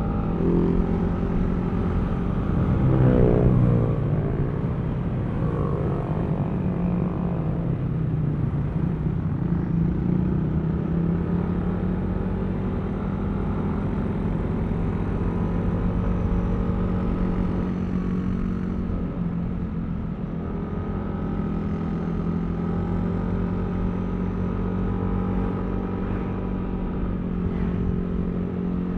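Yamaha Aerox V3 scooter's single-cylinder engine running steadily on the move, with road noise. About three seconds in there is a brief louder swell whose pitch glides up and down.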